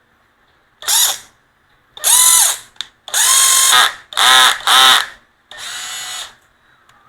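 National 6470 cordless drill motor run in six short trigger pulls, each whine rising in pitch as it spins up and falling as it winds down, as the drill is tested across its forward, reverse and high/low speed settings.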